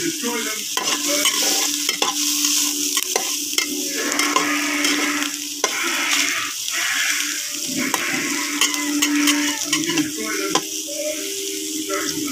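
Garlic, onion and pieces of pork fat sizzling in rendered pork fat in a kawali (wok), stirred with a metal spatula that scrapes and taps against the pan many times. A steady low hum runs underneath.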